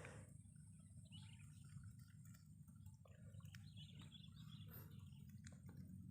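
Faint, scattered bird chirps over a low, steady rumble of outdoor background noise.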